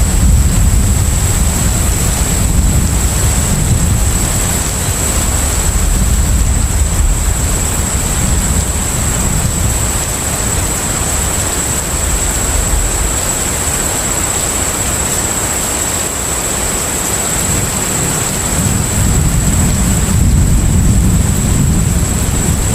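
Container ship at sea: a steady low rumble with a hiss of wind and sea wash over it and a thin high whine held throughout. The rumble eases off for a few seconds past the middle and swells again near the end.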